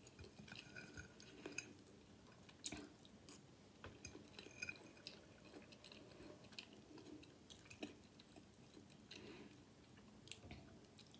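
Faint close-up chewing of a mouthful of seasoned rice with the mouth closed, with a few light clicks scattered through.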